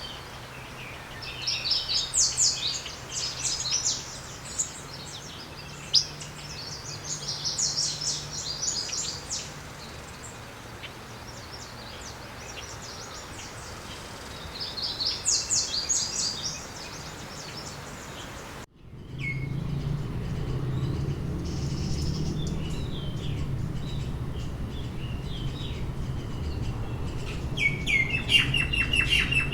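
Small songbirds singing in bursts of fast, high chirping trills, three times in the first two-thirds. About two-thirds of the way in the sound cuts abruptly to another recording, with a steady low hum beneath scattered chirps and a denser run of chirping near the end.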